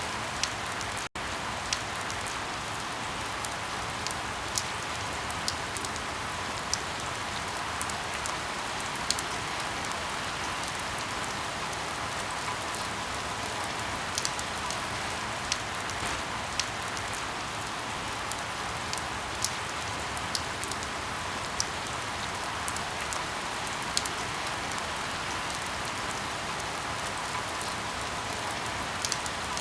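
Steady rain falling, with scattered sharp pops and crackles of burning firewood about once every second or two.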